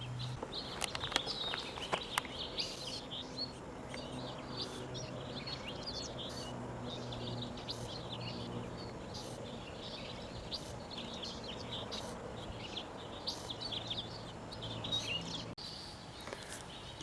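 Small birds chirping, many short high calls one after another, over a low steady hum. A few sharp clicks sound in the first two seconds.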